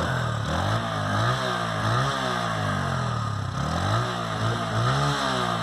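TVS Apache RTR 160's single-cylinder engine revved in neutral, its exhaust note rising and falling through about five or six throttle blips.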